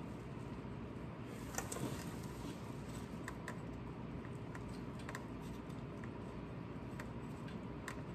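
Scattered light clicks and taps of driveshaft mounting hardware being handled and fitted by hand under a truck, with a small cluster about a second and a half in, over a steady low hum.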